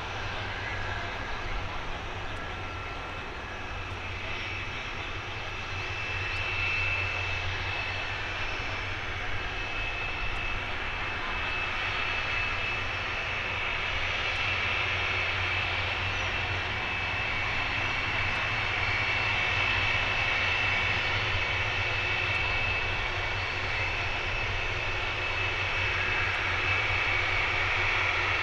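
Boeing 747-400F's four jet engines running: a steady high fan whine over a low rumble, growing louder about six seconds in and then holding.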